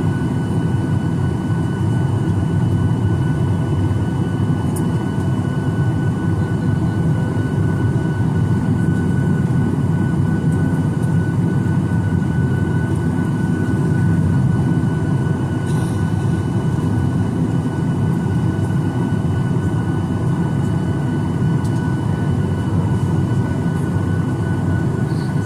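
Steady cabin noise inside a Boeing 737-900ER airliner: a low rumble and airflow hiss with a constant high-pitched whine over it.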